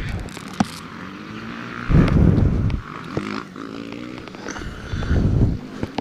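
Motocross dirt bikes revving on the track, their pitch rising and falling, with gusts of wind buffeting the microphone about two seconds in and again near the end.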